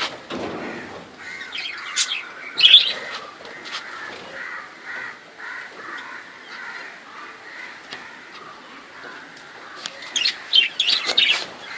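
A flock of caged budgerigars chattering and chirping steadily, with sharper, louder calls about two and a half seconds in and again near the end.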